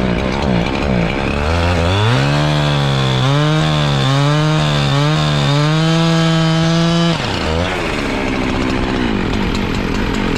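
A small engine working under load, its pitch sagging and recovering several times, then cutting out about seven seconds in as it runs out of fuel. A lower, steadier engine sound carries on underneath.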